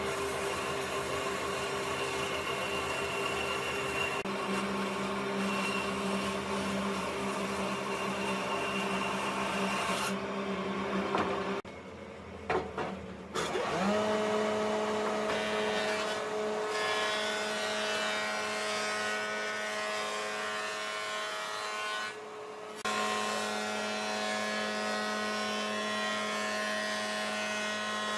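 Electric power tool running and working wood, its motor a steady hum. About twelve seconds in it breaks off, and a motor winds up with a rising whine, then runs steadily again, with another short break a little after twenty seconds.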